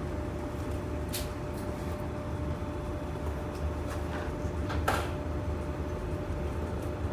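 Steady mechanical hum with a constant low drone and a thin steady tone, broken twice by a short sharp knock, the louder one about five seconds in.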